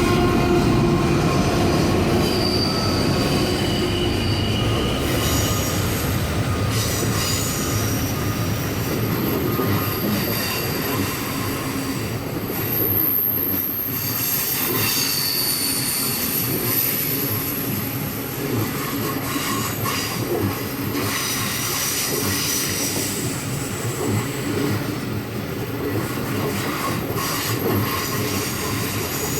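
Indian Pacific passenger train rolling past, its wheels squealing on the rail in high tones that come and go over a steady rumble of wheels on track.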